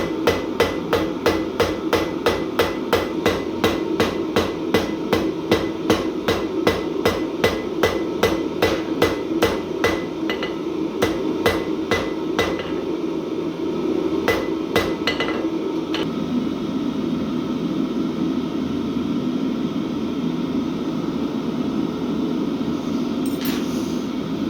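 Hand hammer striking hot mild steel on an anvil in a steady forging rhythm of about three blows a second, breaking up into a few scattered blows and stopping about two-thirds of the way through. A steady low hum runs underneath throughout.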